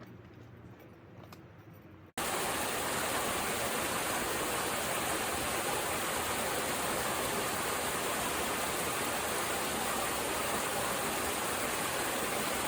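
A waterfall rushing, a loud, steady, even wash of falling water that cuts in abruptly about two seconds in. Before it there is a quieter stretch with a few faint ticks.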